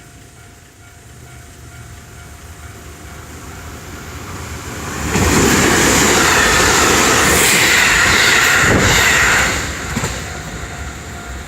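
Marine Liner electric train approaching and passing a level crossing at speed. It grows steadily louder, is loud for about four seconds from about five seconds in, then drops away. A level-crossing warning bell rings steadily beneath it.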